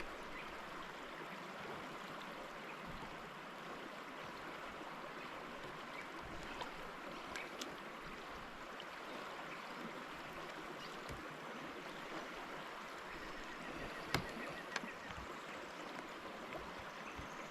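Steady rushing of river water, with a few sharp clicks now and then.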